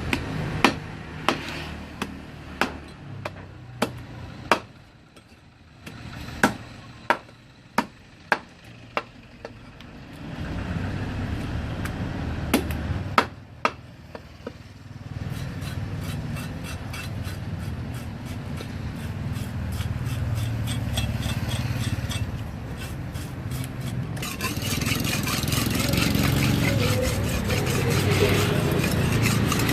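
Fish being cut and scraped with a kitchen knife on a cutting board. A dozen or so sharp knocks come in the first ten seconds, then steady scraping with rapid fine clicks, growing louder and hissier near the end.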